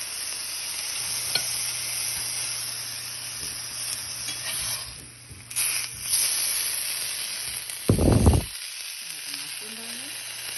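Shishito peppers and portobello mushroom caps sizzling steadily in a hot cast iron pan, with a sharp crackle or two. A short low bump about eight seconds in is the loudest moment.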